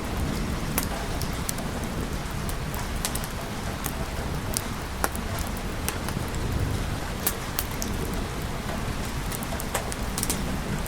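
Steady rain with a low rumble underneath and scattered sharp ticks of drops.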